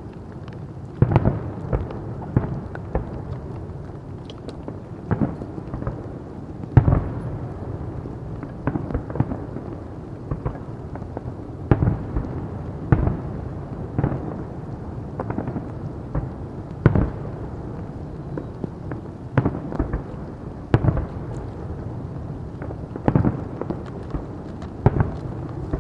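Fireworks display: aerial shells bursting with loud bangs every second or two, irregular, over a continuous rumble of echoing detonations. A rapid run of crackles comes in at the very end.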